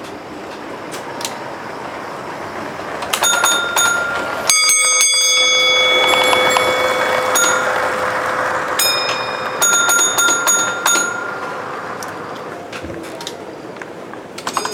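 Two small bells of different pitch, struck in short groups of quick strokes. The lower bell rings on for several seconds after its strokes, about four and a half seconds in.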